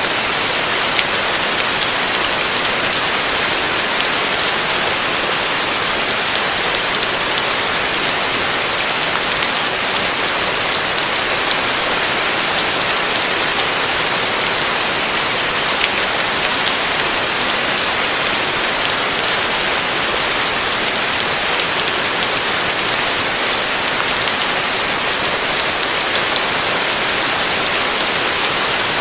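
Heavy rain falling steadily on a roof: a dense, even hiss of countless drops, with fine individual drop ticks through it.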